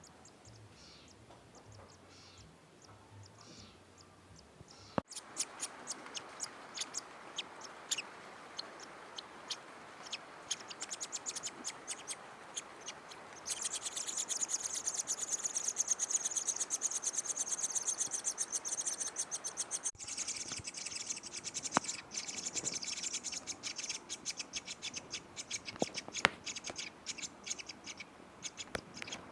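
Black-naped monarch nestlings calling with many short, high chirps. The sound changes abruptly about 5 and 20 seconds in, and between those points the chirps thicken into a dense, continuous high chatter for several seconds.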